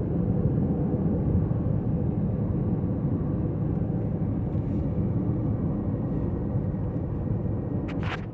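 Steady road and engine rumble of a car driving at speed, heard from inside the cabin. Two short clicks just before the end.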